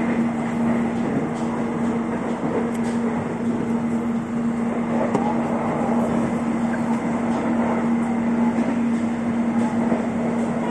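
Jakarta airport rail link electric train running, heard from inside the carriage: a steady rolling noise under a constant hum, with a few faint light clicks.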